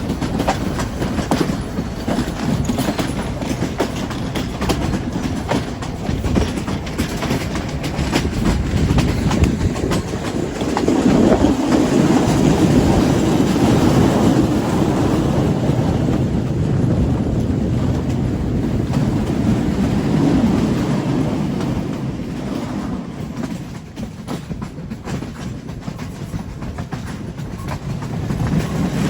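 Train running along the line, heard from aboard, its wheels clattering over the rails in a steady rumble. The rumble grows louder about eleven seconds in and eases off again after about twenty seconds.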